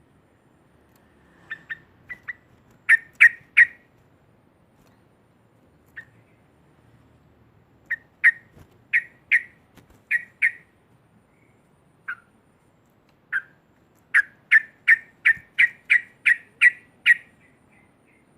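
Yellow-vented bulbul (trucukan) calling in short, sharp repeated notes, in loose groups of two or three with pauses between them. Near the end it breaks into a fast run of about ten notes, roughly three a second.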